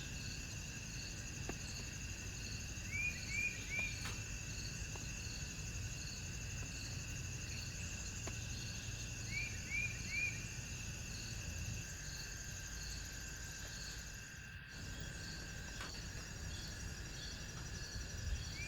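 Night insect chorus of crickets: several steady high trills, one pulsing about twice a second. A bird gives three quick chirps twice, once about 3 s in and again about 9 s later, over a low background rumble.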